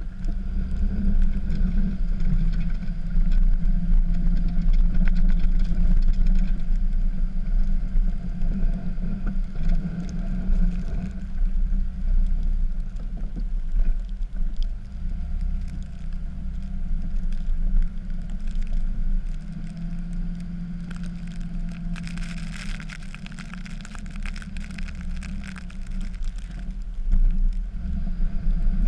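Dodge pickup's Cummins inline-six turbodiesel running under load while plowing snow, a steady low drone that swells and eases. About two-thirds of the way through, a hissing noise rises for a few seconds.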